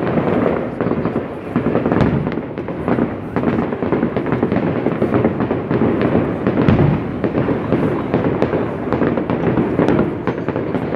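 Fireworks display: a dense, continuous run of bangs and crackles with no pause.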